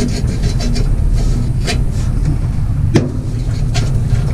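Dried mud dauber nests being scraped and knocked off a vintage Deutz diesel engine: a few sharp knocks and scrapes spaced about a second apart, over a steady low rumble.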